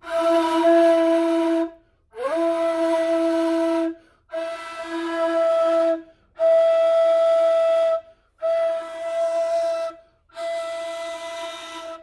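Kız ney, a Turkish end-blown reed flute in C tuning, blown six times in a row. Each breathy note is held about a second and a half, with a short breath between notes, and all six sound the same pitch: the neva (D) note that a beginner's first ney sound should give. The second note slides up into pitch as it starts.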